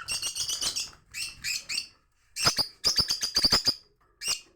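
Small songbirds chirping in short high-pitched bursts, with a quick run of sharp repeated notes midway through.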